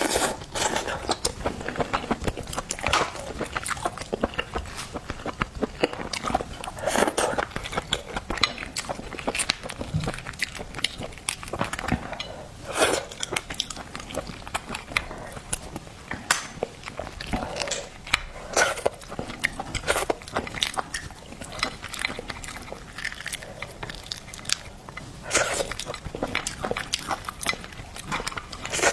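Close-miked mouth sounds of a person biting and chewing seafood: a dense run of irregular clicks and smacks, with louder bites every few seconds.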